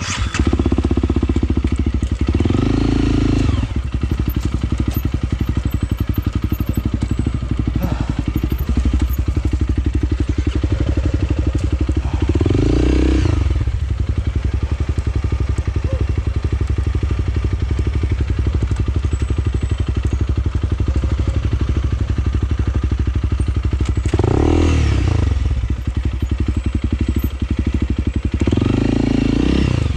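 Honda CRF300L single-cylinder four-stroke engine running at low revs on an off-road trail, with the throttle opened four times, each a short rise and fall in revs.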